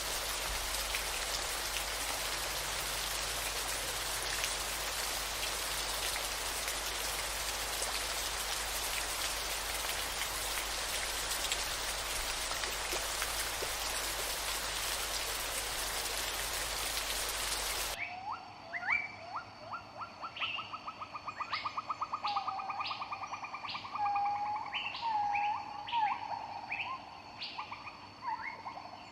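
A steady hiss of falling or running water, with a low hum under it, cuts off abruptly about two-thirds of the way through. Songbirds then sing: rapid trills and repeated chirping notes.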